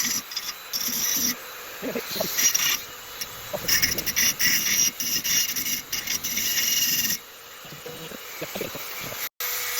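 Dremel rotary tool cutting into a metal exhaust tip, a hissing, rasping grind that comes and goes in uneven passes as the wheel is pressed on and eased off.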